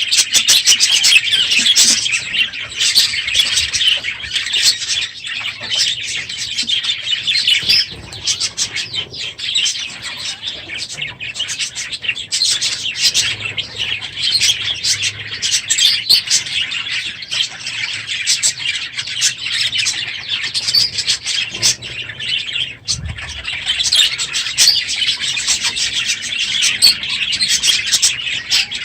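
A crowded aviary flock of budgerigars chattering loudly, a dense, unbroken mass of overlapping chirps and warbles.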